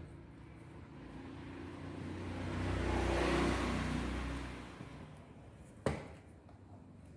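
A motor vehicle passing by: it swells up, peaks and fades away over about four seconds. A single sharp click comes about a second after it fades.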